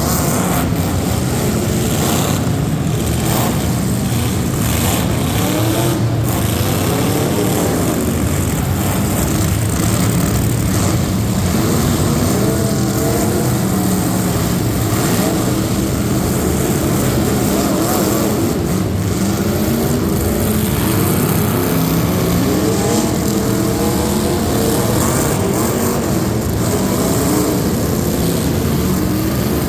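Racing truck engines running loudly under heavy throttle, their pitch wavering up and down as they rev, over a constant rumble.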